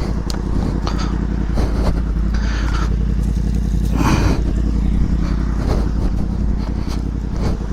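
Motorcycle engine idling steadily, with scattered knocks and clatter and a short rushing noise about halfway through.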